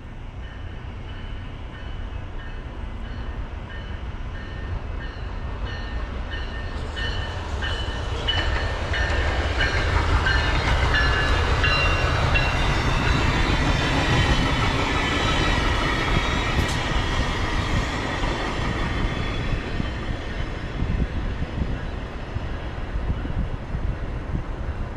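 Amtrak Illinois Zephyr passenger train approaching and passing on snowy track, its wheel and rail noise building to a peak about halfway through and then easing off. A high repeating tick, about twice a second, sounds through the first half.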